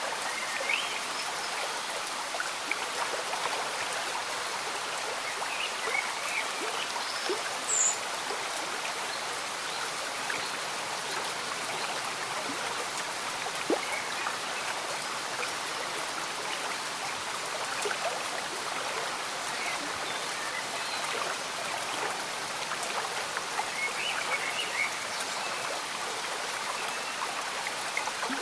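Slow stream bubbling and trickling steadily under gentle rain, with scattered short high chirps over it and a brighter one about eight seconds in.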